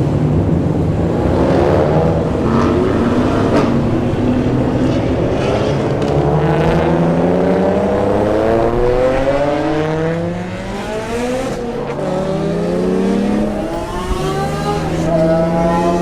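Car engine accelerating hard through the gears: the pitch climbs, drops at each shift and climbs again, then holds steady near the end.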